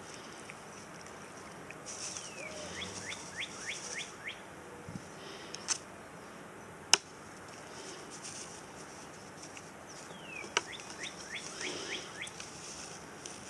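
A songbird singing a phrase of quick falling notes over a high buzz, twice, about eight seconds apart. A sharp click about seven seconds in is the loudest sound, with a couple of smaller clicks around it.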